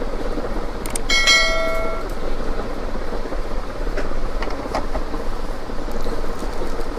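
Steady background noise with a few sharp clicks, and about a second in, a brief bell-like ringing tone lasting about a second.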